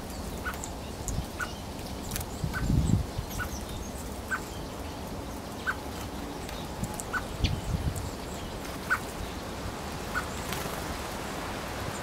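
A bird repeating a single short call note, roughly once a second, over a steady outdoor background, with low rumbles of wind on the microphone twice.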